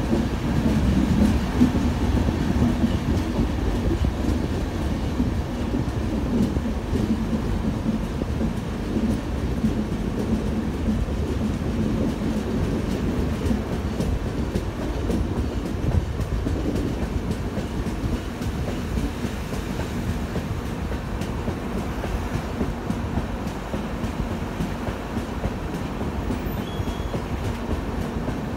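Moving passenger train heard from beside its coaches: a steady rumble of the wheels on the rails, with clickety-clack.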